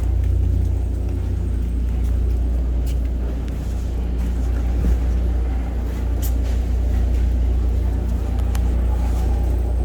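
Steady low rumble of a running vehicle, with a few faint clicks over it.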